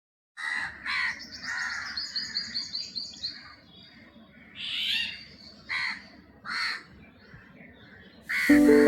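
Birds calling: a series of short, harsh calls with a quick run of high chirps in the first few seconds. Music starts just before the end.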